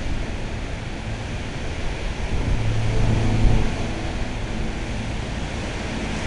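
Wind rushing over the microphone, with an engine hum that swells and fades between about two and four and a half seconds in, like a vehicle passing.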